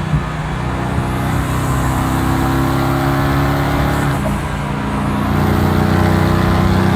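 Mercedes-AMG GT S twin-turbo V8 pulling under load. Its note climbs slightly, dips briefly about four seconds in, then runs on at a lower pitch and a little louder.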